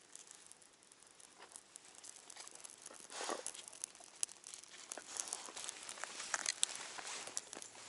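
Small campfire of damp wood being lit and catching: irregular crackles and snaps, sparse at first and growing louder.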